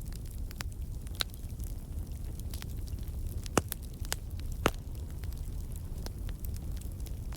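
Wood logs burning in a fireplace: a steady low rumble of flame with scattered sharp crackles and pops, two louder pops about three and a half and four and a half seconds in.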